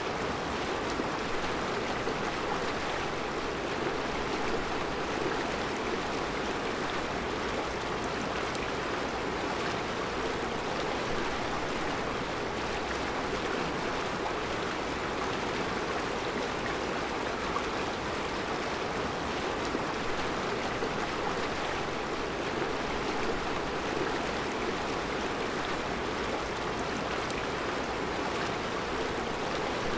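Mountain river flowing over a rocky bed of round stones, a steady rushing of water.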